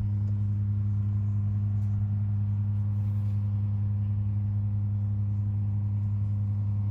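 A steady low hum with a few faint overtones above it, unchanging throughout.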